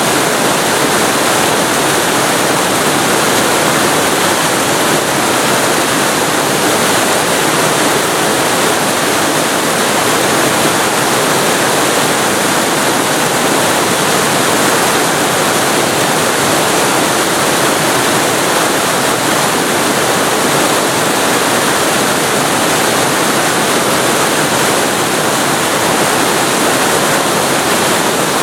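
Waterfall recorded very close to the falling water: a loud, steady rushing hiss that does not change.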